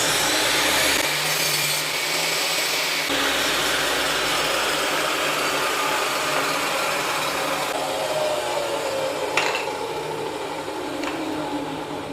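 Electric power tool running on wood, a loud steady noisy run with a couple of abrupt changes early on, and a faint pitch that sinks in the later seconds.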